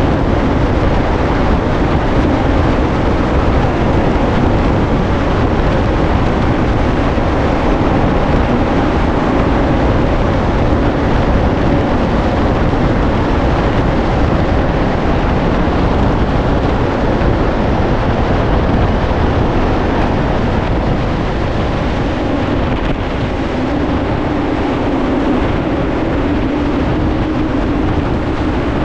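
Steady roar of artificially generated high wind from a large bank of test-facility fans blowing over a full-scale house, with a low fan hum running through it. It eases slightly about two thirds of the way through.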